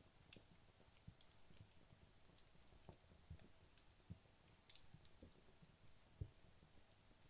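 Wood logs burning in a fireplace: faint, scattered crackles and small pops, irregularly spaced, with a low pop about six seconds in the loudest.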